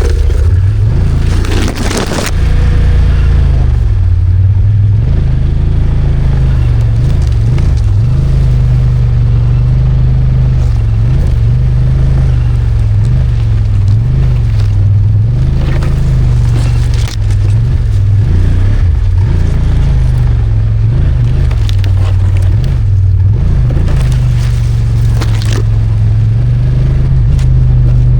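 Snowmobile engine running under load through deep snow, its revs rising and falling with the throttle.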